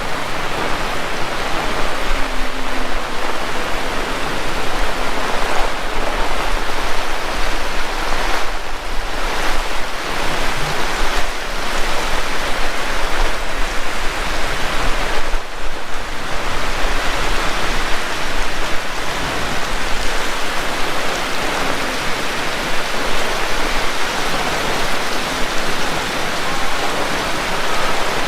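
Heavy rain falling steadily, a loud, dense hiss of drops with only slight dips in intensity.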